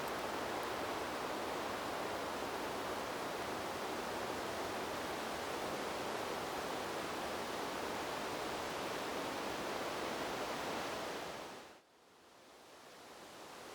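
Steady rushing noise of wind blowing through trees, even and without gusts. About eleven seconds in it fades quickly almost to nothing, then slowly swells back up.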